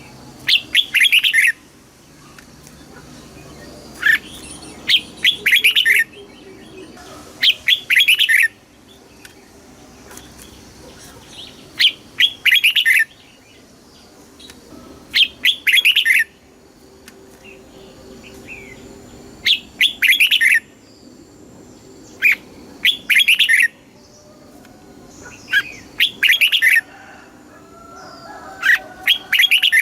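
Red-whiskered bulbul singing: short, bright phrases of quick whistled notes, about nine of them, repeated every three to four seconds.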